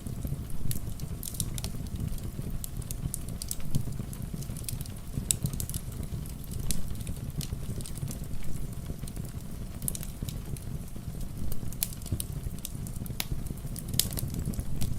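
Wood fire crackling in a fireplace, with frequent irregular sharp pops, over a steady low rush of rain.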